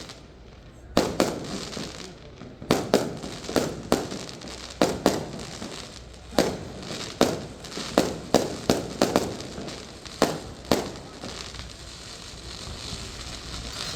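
Aerial fireworks shells bursting in a rapid, irregular series of sharp bangs, some in quick pairs, each with an echoing tail. The bangs stop about eleven seconds in.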